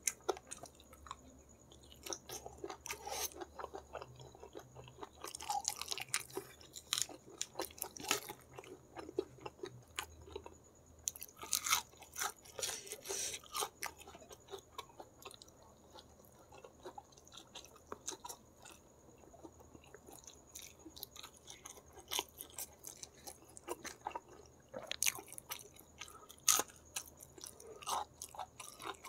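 Close-miked eating: chewing and biting on spicy braised chicken feet with rice, wet smacks and crunchy crackles coming in irregular clusters.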